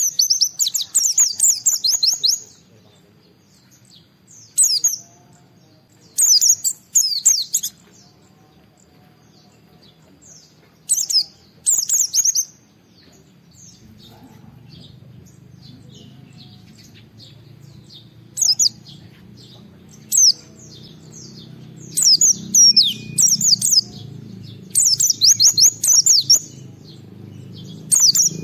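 White-eye (pleci) singing: repeated bursts of rapid, high chirping phrases, each a second or two long, with short pauses between them.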